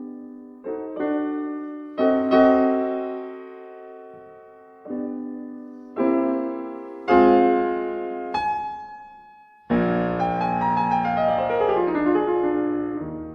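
Background music: piano chords struck one after another and left to ring out, with a descending run of notes about ten seconds in.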